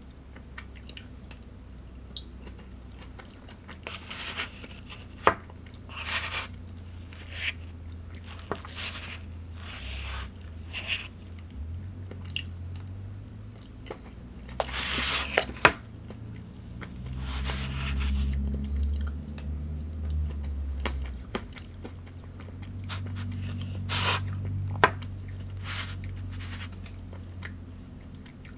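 A person chewing and crunching food close to the microphone, with irregular crisp bites and clicks. The food is a mixed plate of raw vegetables, nuts and meat. Two longer, louder stretches of low, muffled mouth sound come in the second half.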